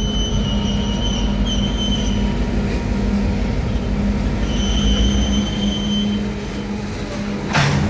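Diesel switching locomotive with a slug running at low speed, its engine giving a steady low hum while the wheels squeal on the rails in two long stretches. A sudden noisy burst comes near the end.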